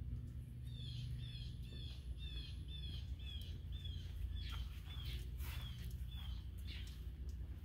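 A songbird singing a run of evenly repeated down-slurred chirps, about two and a half a second, starting just under a second in and loosening into scattered whistled notes in the second half, over a steady low rumble.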